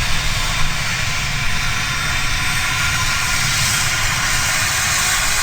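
Jet engines of a Cessna 550 Citation II business jet running: a steady hiss with a low rumble underneath.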